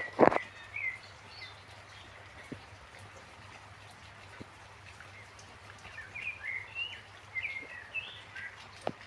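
Small birds chirping in short bursts over a light background hiss of rain, with scattered single drips. A dull thump just after the start is the loudest sound.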